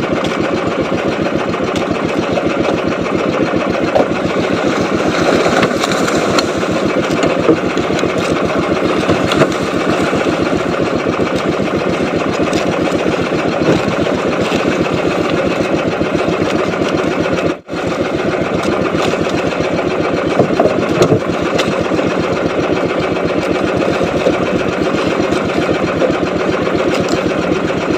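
Small boat engine running steadily at a fast, even chug, with a momentary break about two thirds of the way through.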